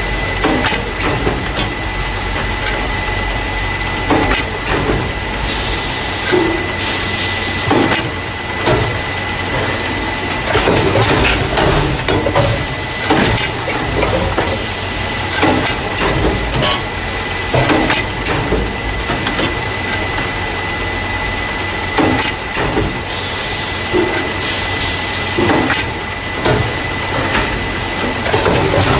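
Carton caser running as it packs paper juice or milk cartons into plastic crates. A steady high whine sits under a constant stream of irregular clacks and knocks, and a hiss rises and falls away twice, for a second or two each time.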